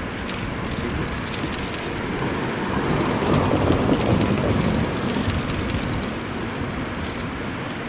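923-series Doctor Yellow Shinkansen set moving slowly through the rail works yard: a steady rumble of the train on the track that swells about three to four seconds in.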